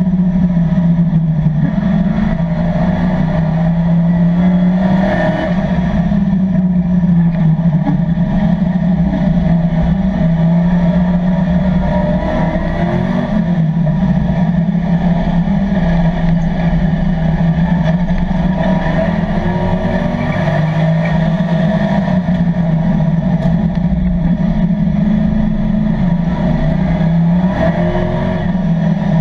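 LS3 6.2-litre V8 engine of a Camaro race car running hard at racing speed, heard from inside the cockpit. Its note rises and falls repeatedly as the throttle is worked through the corners.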